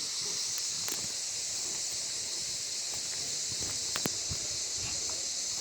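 Steady high-pitched insect chorus, with a few faint clicks, one of them about four seconds in.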